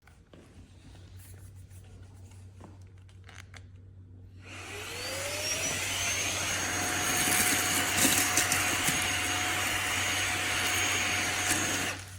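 Cordless handheld vacuum (Fanttik Slim V8 Apex) switched on about four and a half seconds in, its whine rising as the motor spins up, then running steadily before it shuts off near the end. Before that, only a few faint clicks.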